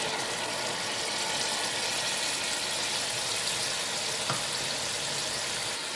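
Tomato, green chilli and ginger-garlic masala sizzling steadily in hot oil in a pot, a yogurt spice paste just poured in and a wooden spatula working through it. One light click a little past four seconds in.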